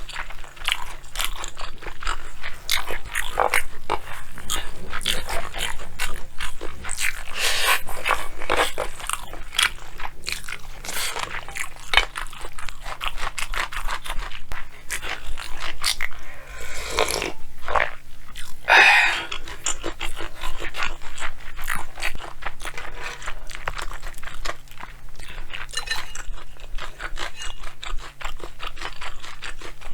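Close-miked chewing and crunching of food, a rapid run of wet crunches and clicks, with two longer noisy sounds around 17 and 19 seconds in.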